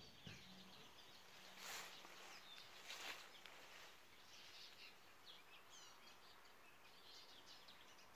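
Faint outdoor birdsong: scattered small chirps and twitters, with two brief soft rushes of noise about two and three seconds in.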